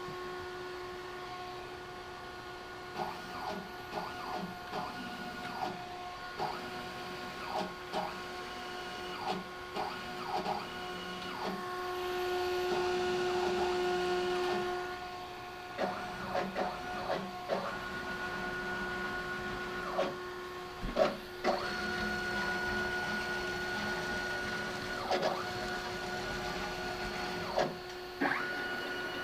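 Stepper motors of a homemade CNC machine on its first test run, holding a steady whine and making many short, quick moves, each heard as a brief chirp. One longer, louder move comes about twelve to fifteen seconds in.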